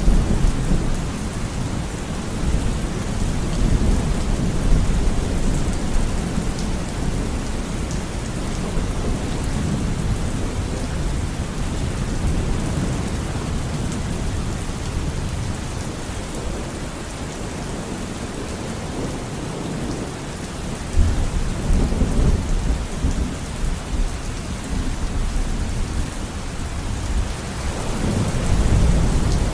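Steady rain falling with rolling thunder rumbling underneath, the thunder swelling at the start, about two-thirds of the way in and again near the end.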